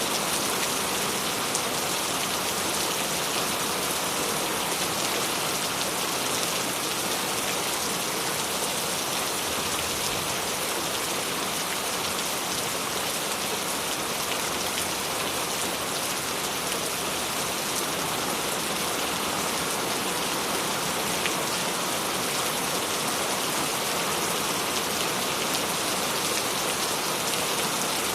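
Steady rain falling on a surface, with scattered individual drops ticking.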